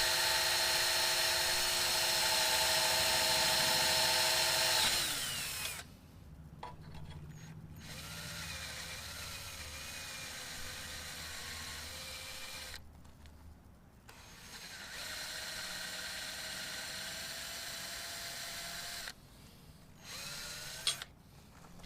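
Power drill pre-drilling depth-limited pilot holes through an aluminium frame and hardwood for self-tapping screws. A loud, steady whine stops about five seconds in. It is followed by quieter runs with a wavering pitch, broken by short pauses between holes.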